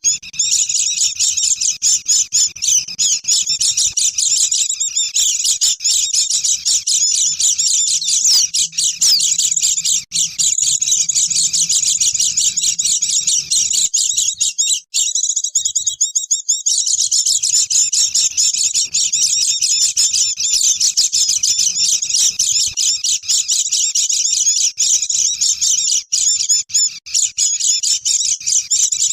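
A flock of white-eyes (pleci) chattering and twittering non-stop in a dense, high-pitched chorus, a lure call for wild birds. The chatter thins briefly about halfway through.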